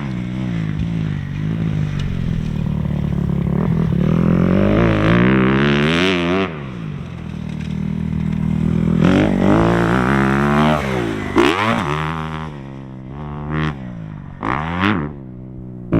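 Motocross dirt bike engine being ridden hard, its pitch climbing and dropping again and again as the throttle opens and closes through the gears, with quick throttle blips near the end.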